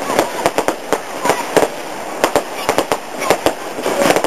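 Fireworks going off: a rapid, irregular run of sharp bangs and cracks, several a second, with voices in the background.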